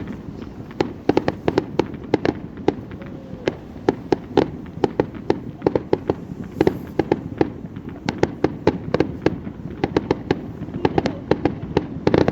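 Fireworks display: a rapid string of sharp cracks and bangs, several a second, over a continuous rumble.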